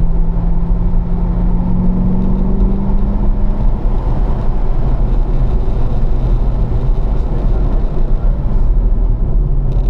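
Corvette V8 heard from inside the cabin, pulling in fourth gear at low revs, its drone rising slowly in pitch for the first few seconds and then easing off as the driver lifts. Road and wind noise run steadily underneath.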